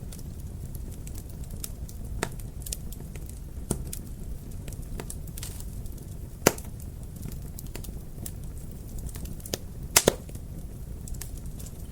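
Wood fire crackling over a low steady rumble, with scattered sharp pops, the loudest about halfway through and a quick pair near the end.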